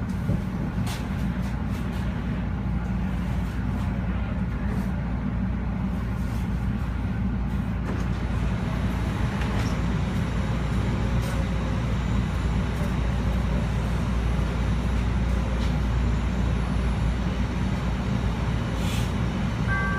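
Chicago CTA Red Line subway car running, heard from inside the car: a steady low rumble with a few faint clicks and rattles.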